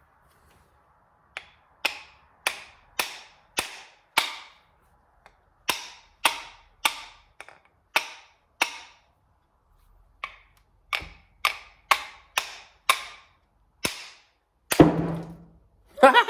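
Repeated hammer taps during disassembly of a drill press, in three runs of six or seven blows about two a second, each blow ringing briefly. A louder, longer knock comes near the end.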